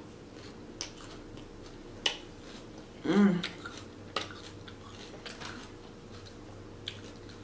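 Close-up chewing of a crunchy Caesar salad with croutons, with a few sharp clicks of a metal fork and plastic bowl and lid. A short hummed "mmm" of enjoyment about three seconds in is the loudest sound.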